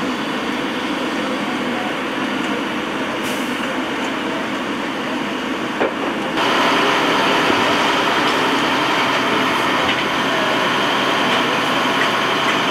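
Steady rumble of idling vehicle engines, with voices in the background; it gets suddenly louder about six seconds in.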